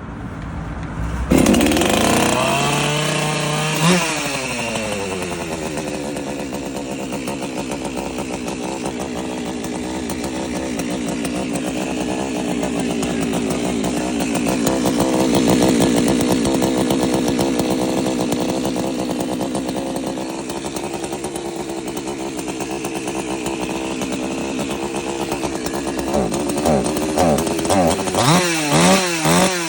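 Oleo-Mac GSH 56 chainsaw's 54.5 cc two-stroke engine catching on the pull with the choke pushed in, revving up once a few seconds in and then running steadily. Near the end it is blipped through several short revs in quick succession.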